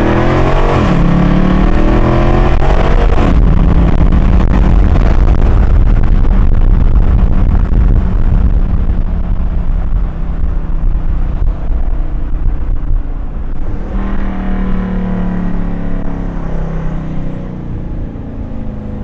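Car engine accelerating, its pitch climbing in the first few seconds and again about fourteen seconds in, with a steady drone and low road rumble while cruising between.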